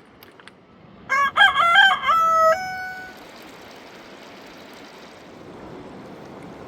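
A rooster crowing once, about a second in: a loud call of roughly a second and a half that ends on a held note.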